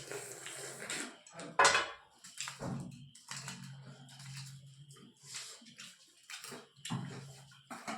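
Close-up eating sounds: irregular slurping and chewing noises in quick succession, one louder than the rest about a second and a half in.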